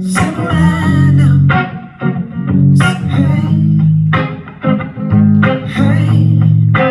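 Instrumental guitar break in a live song: guitar chords with deep bass notes, played in phrases of about two seconds with short dips between them.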